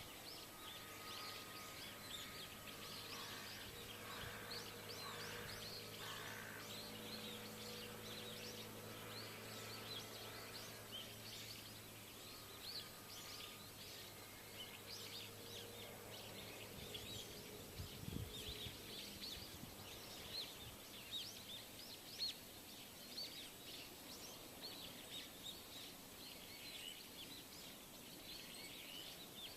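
Many small birds chirping at once, a dense, continuous twittering, over a faint low steady hum that stops about two-thirds of the way through.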